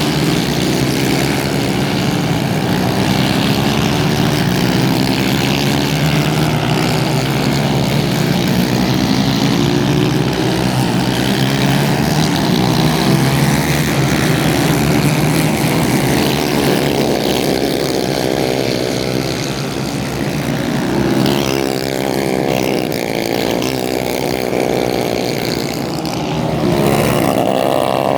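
Several racing kart engines running hard together, their pitches rising and falling as they accelerate, brake and pass.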